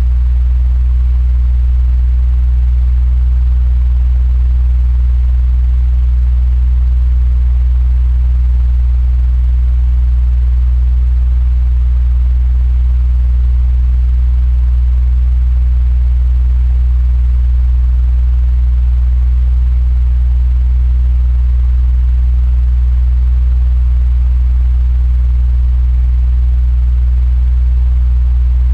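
Electric fan running steadily: a strong low hum with a faint, even airy hiss above it, unchanging throughout.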